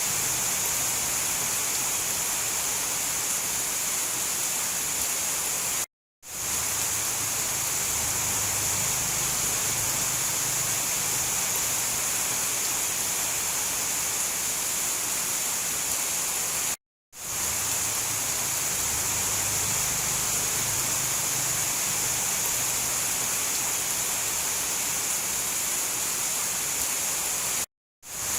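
Steady, dense rainfall with no thunder, cut off abruptly to silence for a split second three times, about every eleven seconds, like the seams of a looped recording.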